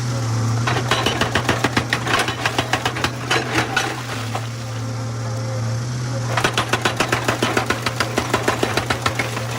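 Excavator-mounted hydraulic rock breaker hammering stone in fast, even blows, about six a second, over the excavator's steady engine drone. The hammering starts about a second in, stops around four seconds, and starts again near six and a half seconds.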